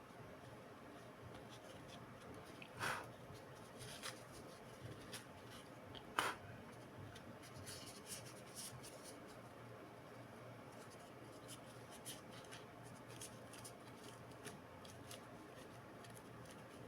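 Faint handling sounds from work on an opened laptop: two short scrapes, about three and six seconds in, then scattered light clicks and ticks over a steady low hiss.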